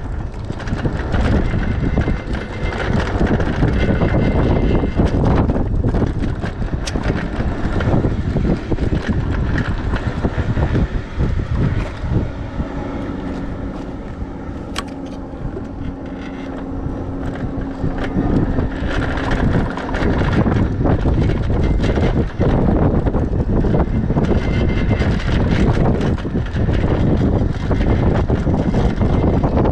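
Wind buffeting the microphone while riding an electric bike, a steady rushing rumble. About halfway through the wind eases for a few seconds and a steady low hum comes through, with a single sharp click.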